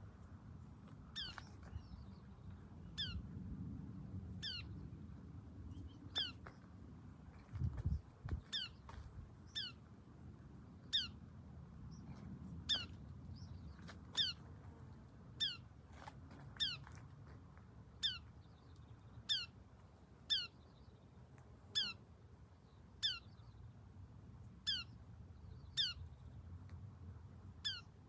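A small bird calling over and over, each call a short falling note, about one every second or so.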